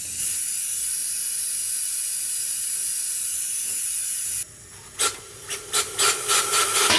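Aerosol spray lubricant being sprayed onto rusted engine parts: one long steady hiss for about four seconds that cuts off suddenly, then a quick series of short spurts near the end.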